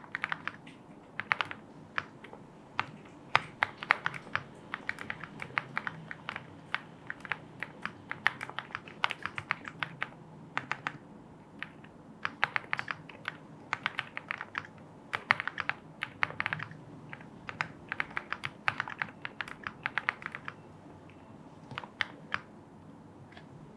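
Typing on a Lucky 65 aluminium-case mechanical keyboard: irregular runs of quick, sharp keystroke clacks, thinning to a few separate strokes near the end.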